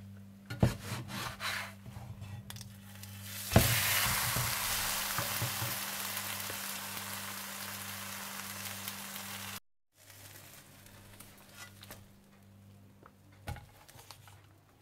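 Egg paratha frying on a hot tawa. After a few clicks and knocks of utensils, a clack about three and a half seconds in sets off loud sizzling. The sizzling slowly dies down, cuts off suddenly, and quieter light knocks follow.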